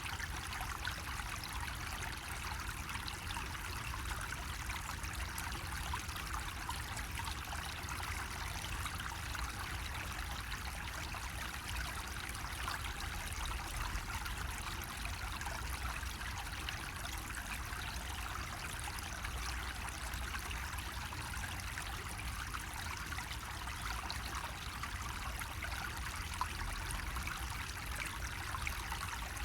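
Water trickling steadily from a bamboo water spout, an even, unbroken splashing with a low rumble underneath.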